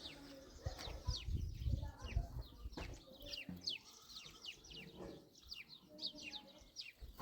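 Small birds chirping continually: many quick, short chirps, each sliding downward in pitch, with scattered low thumps underneath.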